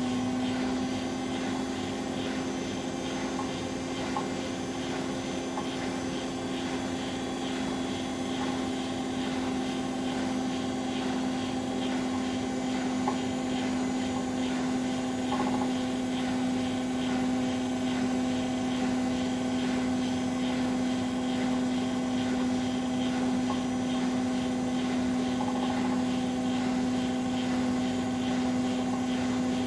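Bosch Maxx WFL 248Y washing machine spinning at high speed, its motor giving a loud, steady whine that holds one pitch throughout.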